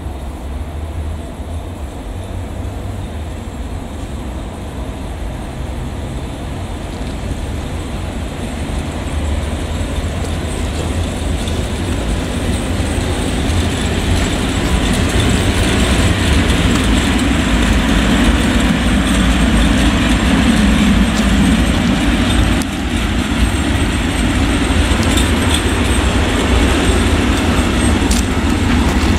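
Train approaching and running past close by: a deep rumble with wheel noise, growing louder over the first half and staying loud after that.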